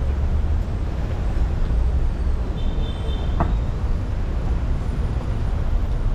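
Road traffic on a rain-wet street: vehicles passing with tyres hissing on the wet road over a steady low rumble.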